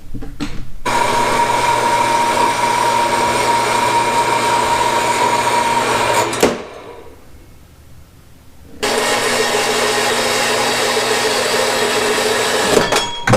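A power tool runs for about five seconds with a steady high whine, stops for about two seconds, then runs again for about four seconds at a lower pitch.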